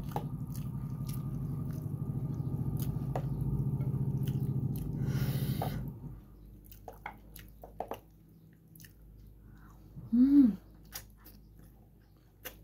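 Eating sounds: a person chewing and biting into boiled pork belly held in the hands, with scattered wet clicks. A low steady hum fills the first six seconds and then stops, and a short vocal sound rising then falling in pitch stands out about ten seconds in.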